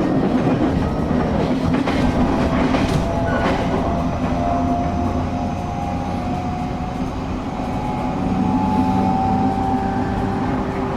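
Inside a Shinetsu Line local train running between stations: a steady rumble of wheels on rail with a faint motor whine, and a few clacks from the track joints about two to three seconds in.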